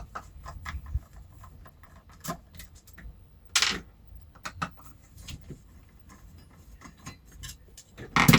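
Small metal tools and hardware being handled and rummaged through, giving scattered light clicks and clinks. There is a short rustle about three and a half seconds in and a louder clatter near the end.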